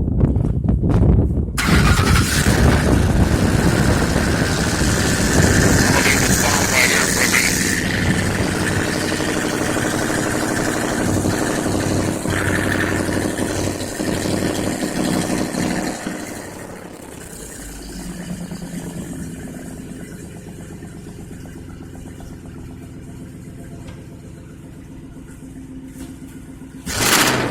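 2006 Ford Expedition's 5.4-litre V8 running just after start-up through a 50 Series Flowmaster muffler with no catalytic converters. It is louder for about the first sixteen seconds, then settles to a quieter steady idle, with a brief loud burst near the end.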